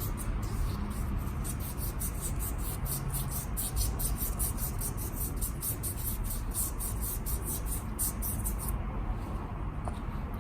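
Rapid, even back-and-forth scrubbing or scraping strokes, about five a second, as a part of a scooter's seized rear brake assembly is cleaned by hand. The strokes stop near the end over a steady low hum.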